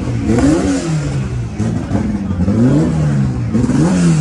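Car engines being revved in short blips again and again, the pitch climbing and dropping about once a second.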